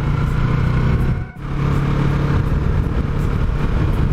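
Yamaha MT-03's parallel-twin engine running under way, mixed with wind and road noise. The engine sound drops out briefly about a second and a half in, then picks up again.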